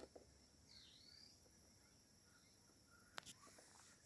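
Near silence: faint outdoor background with a steady high-pitched hiss, a faint chirp about a second in, and a single light click about three seconds in.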